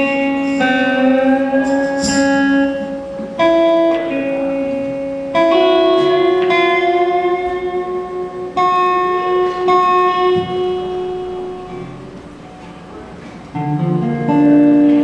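Guitar chords played live, each struck and left to ring, with a new chord every two to three seconds. The strongest chord comes near the end after a quieter stretch.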